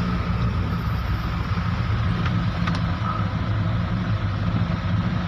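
Motor vehicle engine running steadily with a low hum, two faint ticks about halfway through.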